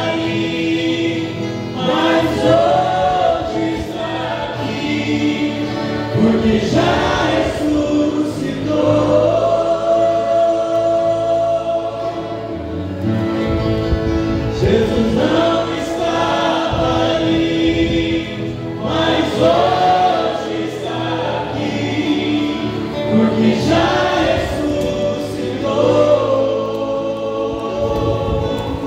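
Portuguese Christian worship song: a group of voices singing sustained phrases together over backing music.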